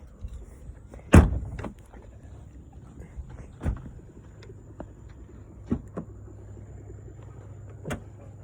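Four sharp thumps about two seconds apart, the first the loudest, over a low steady rumble.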